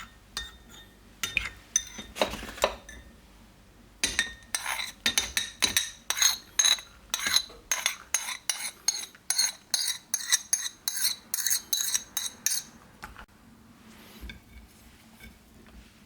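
A metal utensil clinks against a dish, first a few scattered times, then in a quick steady run of about three clinks a second for eight seconds or so, each with a short ring, before it stops.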